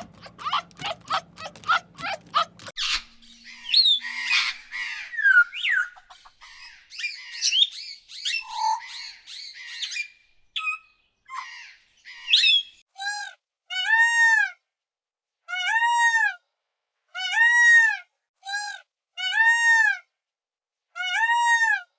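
Bird calls in three runs. First a quick series of short calls over a low hum. Then assorted chirps and gliding whistles. Then a string of separate, evenly pitched arched calls, each under a second long and about a second apart.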